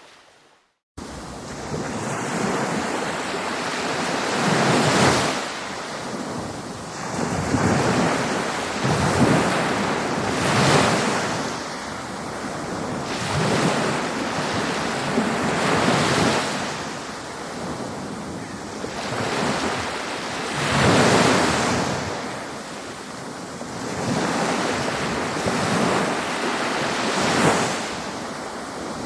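Ocean waves breaking and washing on a shore: a continuous surf hiss that swells and eases every few seconds. It cuts in suddenly after about a second of silence at the start.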